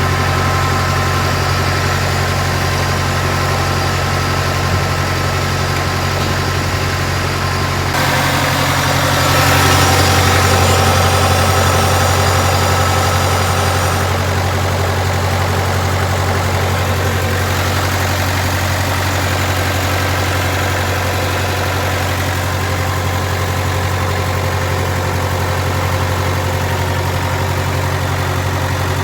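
Kubota diesel engine of a Bobcat 7753 skid steer running steadily, growing louder with more hiss for several seconds about a third of the way in, then settling back.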